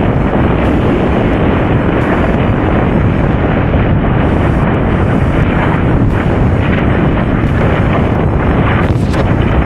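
Strong wind blowing over the microphone: a loud, steady rumbling rush with no let-up.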